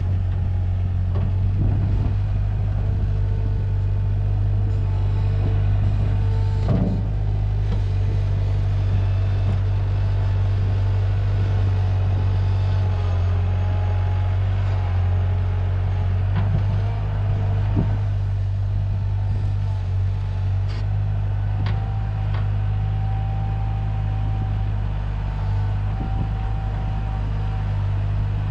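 Diesel engine of earth-moving equipment running steadily under load while moving fill dirt, with a few sharp clanks now and then.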